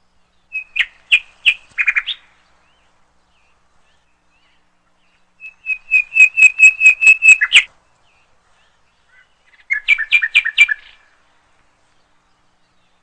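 A songbird singing three short phrases of quick, repeated high chirps, with silence between the phrases. The middle phrase is the longest, a fast run of about five notes a second.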